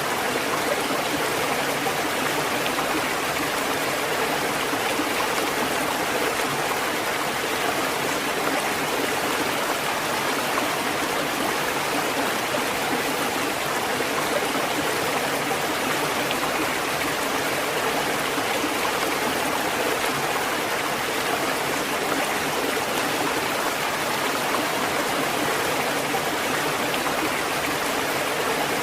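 Steady, unbroken rushing of water, an even hiss with no rise and fall of breaking waves.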